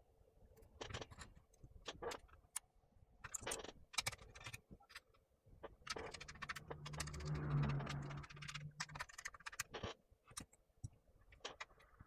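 Clicks, taps and short scrapes of plastic and metal laptop parts being handled while a notebook is taken apart to remove its mainboard. About halfway through comes a steady low hum lasting a few seconds.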